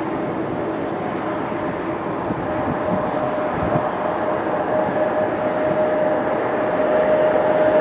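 Jet airliner engines running on approach: a steady rushing roar with a single held whine, slowly growing louder as the plane comes closer.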